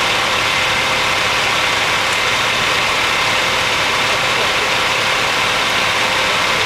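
Vehicle engine idling steadily under a constant, even hiss of noise.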